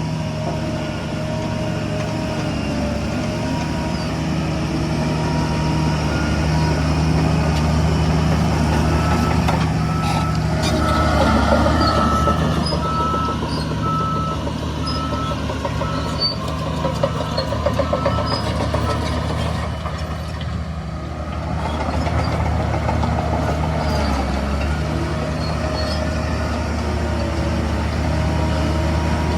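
Heavy diesel construction machinery running steadily, with a reversing alarm beeping evenly for several seconds in the middle.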